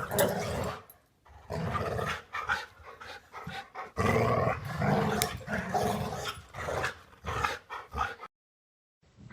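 A dog vocalising in repeated short bursts, with a sudden drop to dead silence near the end.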